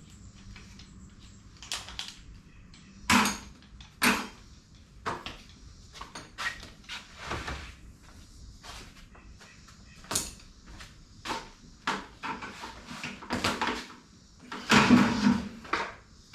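Knocks, clicks and clatter of objects being picked up, moved and set down, in an irregular string of separate sharp sounds. The loudest come about three and four seconds in, and a longer clatter comes near the end.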